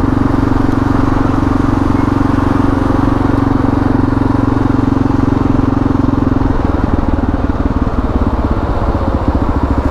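Kawasaki KLR650's single-cylinder engine running under way, heard through a helmet-mounted microphone. About six and a half seconds in, the steady engine note gives way to a lower, pulsing beat.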